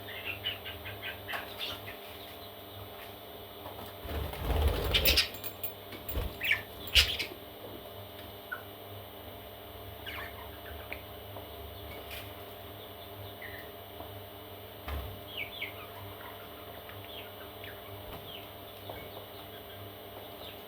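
Parrot chicks giving short, high chirps and peeps, a quick run of them at the start and scattered ones later. About four seconds in comes a louder burst of rustling, followed by two sharp knocks.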